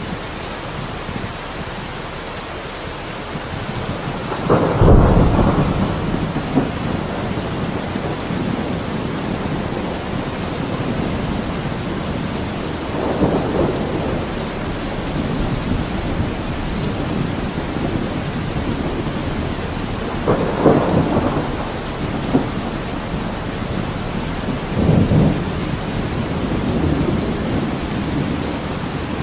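Thunderstorm: steady heavy rain with rolls of thunder, the loudest crack and rumble about five seconds in and further rumbles around the middle and near the end.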